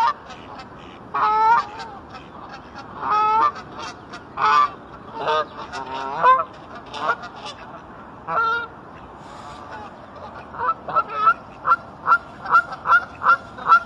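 Geese honking while being fed: several separate honks, then a quick run of short honks at about two a second near the end.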